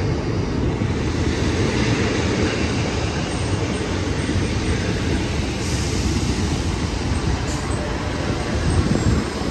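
Transport for Wales diesel multiple unit moving along the platform, a steady rumble of engine and wheels on the rails.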